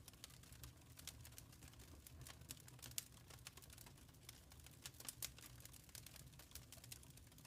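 Wood fire crackling in a fireplace: quiet, irregular small crackles and pops over a low steady rumble of the flames, with one sharper pop about three seconds in.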